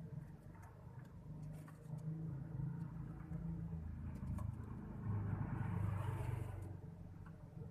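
Low rumble of a motor vehicle, swelling louder past the middle as it passes and then fading.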